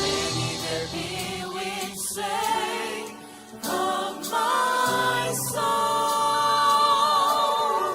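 Gospel worship choir singing a slow song, ending on a long held note with vibrato.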